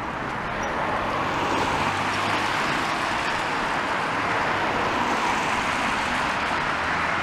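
Road traffic on wet tarmac: a steady hiss of tyres with a low engine hum beneath, swelling over the first second and then holding.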